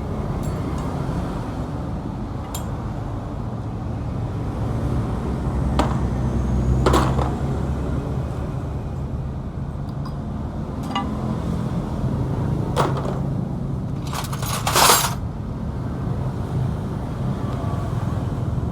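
Yamaha Exciter 135's single-cylinder four-stroke engine running steadily. About half a dozen sharp clicks and knocks sound over it, the loudest a short clatter about three-quarters of the way through.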